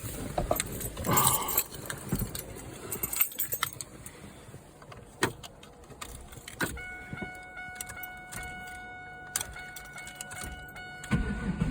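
Keys jangling and a few clicks, then a steady electronic tone from the car for about four seconds. Near the end the starter begins cranking the 1998 Trans Am's cold V8, just before it catches.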